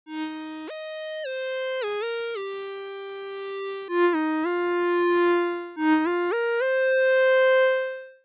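Surge XT software synthesizer playing a single-note melody line in a bright tone with many overtones. The notes step up and down, with a few quick runs of short notes. It ends on a long held note that wavers slightly in pitch.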